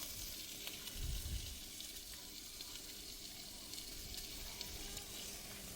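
Food frying in hot oil: a steady sizzle with faint crackles, and a brief low rumble about a second in.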